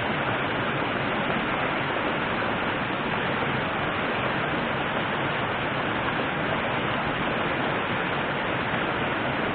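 River water rushing, a steady even rush that doesn't change.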